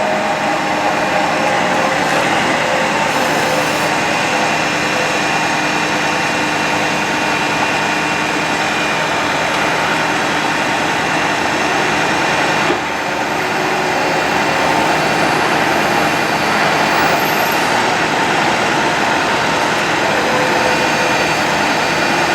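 Ford F-550 bucket truck's engine running steadily with the PTO engaged to drive the hydraulic boom, with a brief click and dip in the sound a little past halfway.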